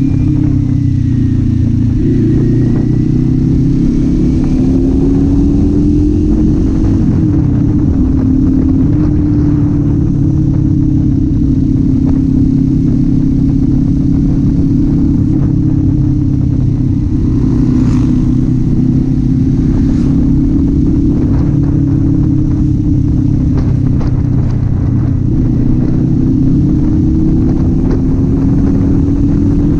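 Kawasaki Z400 parallel-twin engine running under way, its pitch drifting gently up and down with the throttle at a steady cruising pace.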